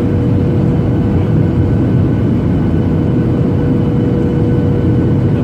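Boeing 737-800 in flight, heard inside the cabin: the steady roar of its CFM56 engines and airflow, with a steady hum running through it.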